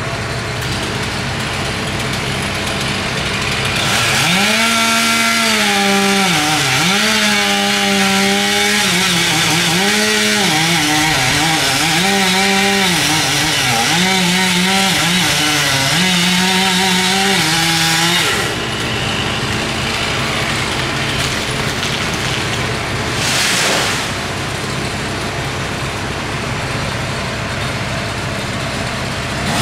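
Two-stroke chainsaw cutting wood from about four seconds in until about eighteen seconds in, its engine pitch repeatedly dipping and recovering as the chain loads up in the cut. A steady, lower engine drone runs before and after the cut.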